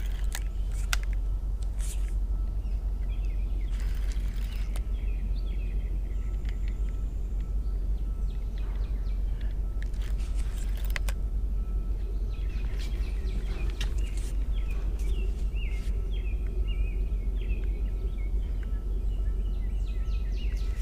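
Birds chirping in short, repeated calls on and off over a steady low rumble, with a few brief clicks here and there.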